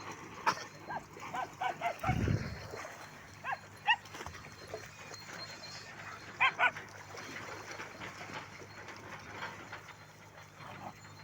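Shelter dogs giving short, high yelping barks in scattered bursts: a run of them in the first two seconds, a pair about four seconds in and another pair at about six and a half seconds, then quieter. A brief low rumble comes about two seconds in.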